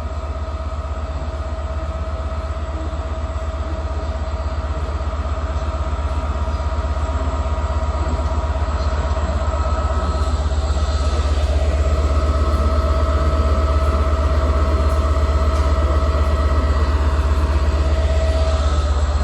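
Diesel train engines running steadily with a deep hum and steady whining tones, growing louder about halfway through.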